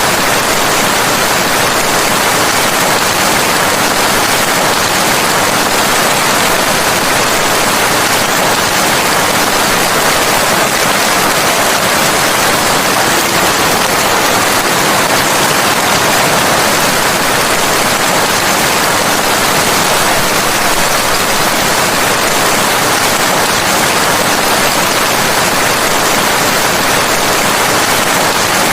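Steady, heavy rain: a dense, even hiss with no single drops standing out and no change throughout.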